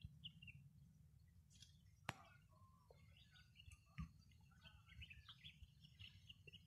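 Faint birdsong: many short chirps and twitters from small birds, over a steady low rumble, with two sharp knocks about two and four seconds in.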